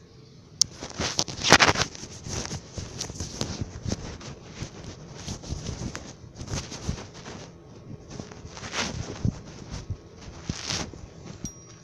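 Irregular handling noise: scattered clicks, knocks and rustling, with a louder clatter about one and a half seconds in.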